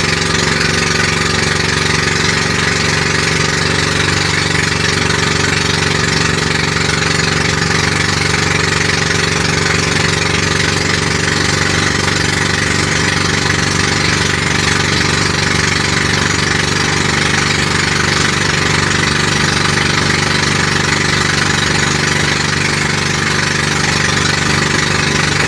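Loud, unmuffled pump boat engine running at a steady, even speed with no change in pitch.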